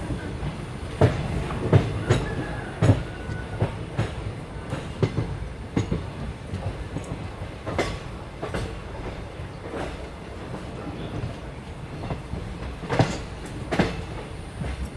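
Train running along the track: a steady rumble with the clickety-clack of the wheels knocking over rail joints, the knocks often in pairs a little under a second apart.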